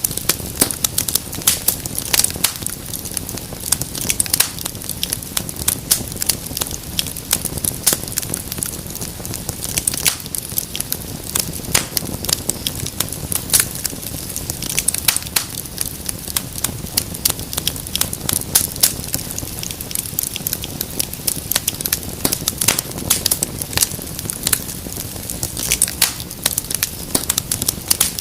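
Wood fire crackling in a fireplace: a steady soft rush of flames with frequent, irregular sharp pops and snaps.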